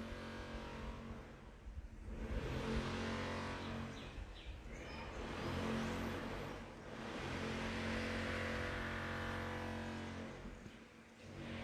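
Motor vehicle engines passing, the drone swelling and fading several times before dying away near the end.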